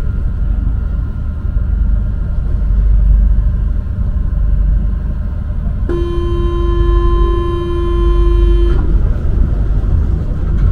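Low steady rumble of a Paris Métro Line 1 MP 05 rubber-tyred train. About six seconds in, a steady buzzing tone sounds for nearly three seconds and cuts off sharply: the door-closing warning buzzer.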